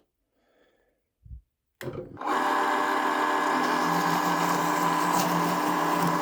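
Electric drill switched on about two seconds in, its motor then running at a steady speed.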